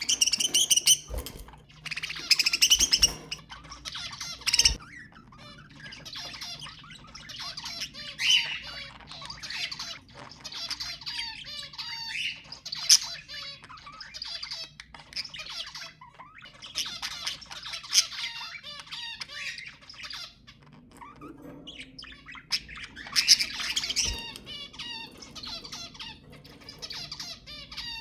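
Budgerigars chattering and warbling continuously, with sharp squawks mixed in. The loudest harsh bursts come in the first few seconds and again near the end. This is the excited chatter that is played to stimulate budgies to breed.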